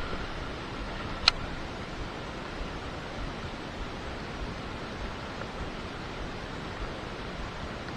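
Steady, even hiss with a single sharp click a little over a second in.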